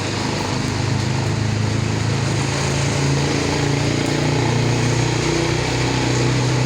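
A bus engine running steadily, a low, even engine hum.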